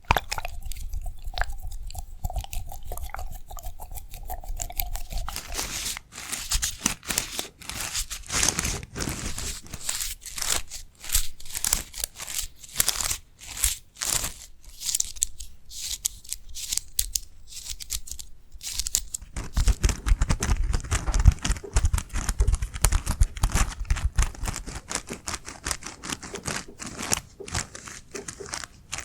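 Close-miked ASMR trigger sounds: rapid crackling and crunching, like something being crinkled or crushed right at the microphone, denser from about six seconds in and heavier near twenty seconds in.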